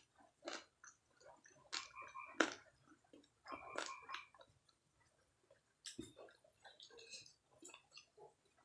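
Close-up chewing and mouth sounds from eating fried chicken lollipop: wet smacks and sharp clicks at an uneven pace, with a couple of short squelchy bursts.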